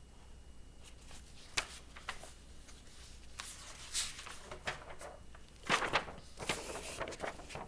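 A picture book being handled and a page turned: a few soft paper rustles and light taps and clicks.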